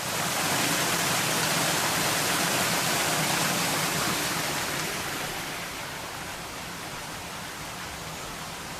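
Steady rushing water, a dense even hiss like a waterfall, starting abruptly and fading slowly over the last few seconds.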